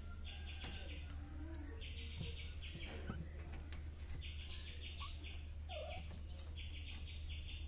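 Bird chirping in short, rapid high-pitched trills, each about half a second long, repeated several times in groups, over a steady low hum.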